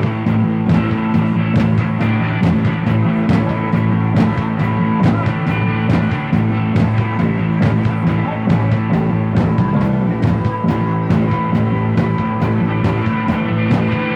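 Instrumental psychedelic rock with a steady drum beat and sustained low guitar or bass notes.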